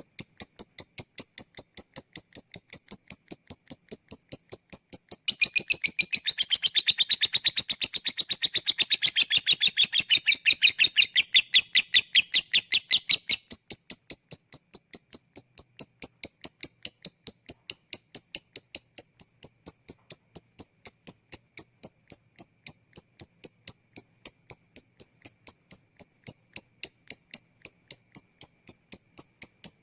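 Lovebird 'ngetik' ticking calls, evenly spaced at about three a second. About five seconds in they break into a fast, continuous chattering 'ngekek' trill that lasts about eight seconds, then the steady ticking resumes.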